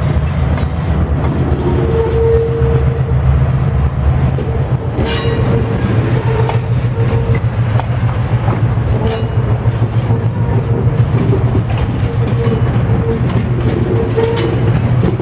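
Passenger train cars rolling past: a steady low rumble, with a few sharp clicks from wheels crossing rail joints and a faint squeal that comes and goes.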